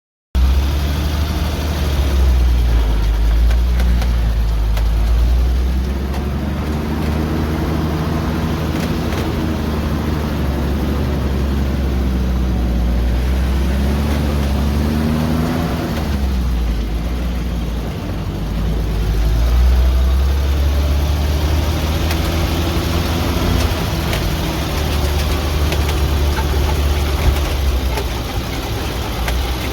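Truck engine running steadily under a low rumble, its pitch rising and falling a few times as it is driven slowly.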